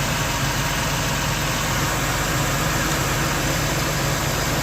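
Chevy Venture's 3.4-litre V6 idling steadily, an engine with a leaking head gasket that is blowing water vapour out of the exhaust.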